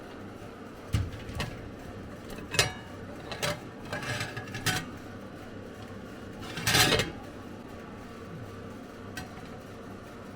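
Cookware being handled: a series of separate knocks and clatters, the longest and loudest about two-thirds of the way through.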